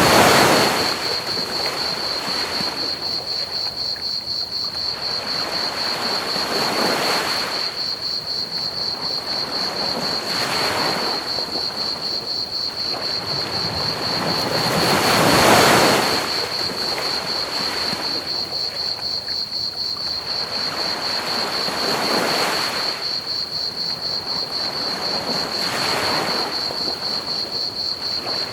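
Ocean waves breaking on a beach, a surge every few seconds with the biggest about 15 seconds in, over a continuous high cricket trill and a steady hiss of pink noise.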